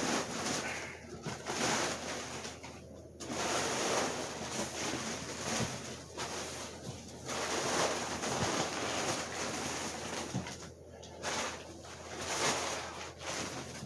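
Packing material being pulled and handled while a shipped box is unpacked, giving an irregular rustling and crinkling that surges and eases, with short pauses about three seconds in and near the end.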